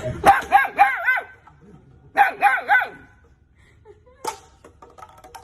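A dog yipping in two quick runs of short, high, rising-and-falling yips, about four in each run, followed by a few faint clicks.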